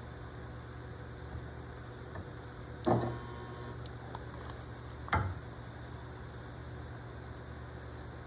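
Spot-welding guns firing on stainless wire cloth: a loud snap with a brief buzz about three seconds in, and a second, sharper snap about two seconds later, over a steady electrical hum from the welder.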